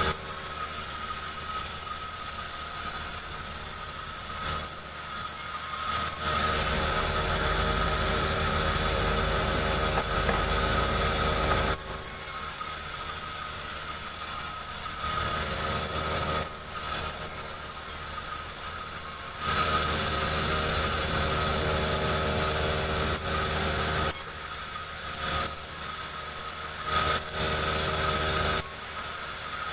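Two-stroke chainsaw ripping jengkol wood, its engine switching between lower running and louder, high-revving stretches of several seconds as it is throttled up into the cut and back off.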